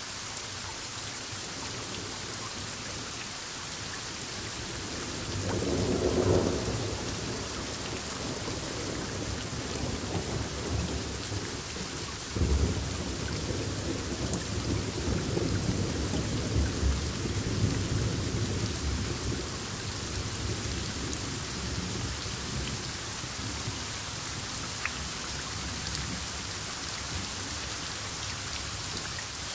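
Steady rain with thunder: a rumble swells about six seconds in, then a sharp clap a few seconds later rolls on for several seconds and fades back into the rain.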